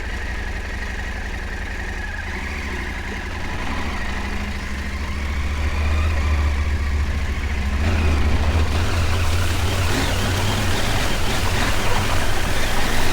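Adventure motorcycle's parallel-twin engine running at low revs on a rocky creek crossing, growing louder about five seconds in. From about eight seconds a loud hiss of splashing water joins it.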